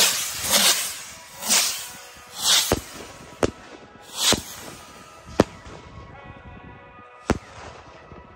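Fireworks going off: short rushing bursts about once a second, mixed with four sharp single bangs, the last one near the end. Music plays faintly underneath.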